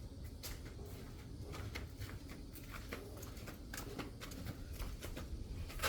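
Faint, scattered small clicks and rustles of hands handling parts and tools, over a low steady hum.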